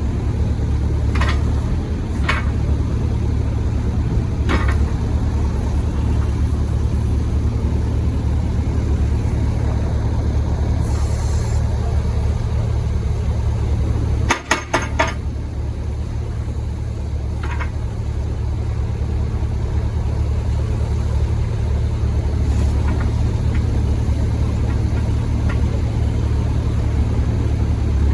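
Yanmar 4TNV94L four-cylinder diesel of a 6-ton crawler excavator running steadily, with a few sharp knocks, a cluster of them about halfway through, and a brief hiss just before.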